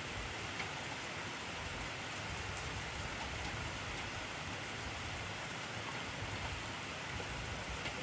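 Heavy rain falling steadily: an even hiss, with a few faint separate drop ticks.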